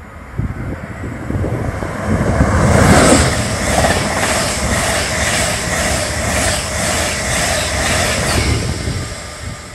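LNER Class 91 electric locomotive and its passenger coaches passing on the line, a rising rush of wheel and air noise that peaks about three seconds in. It holds with a fast, regular clatter of wheels over the rails, about three beats a second, then fades near the end as the train runs away.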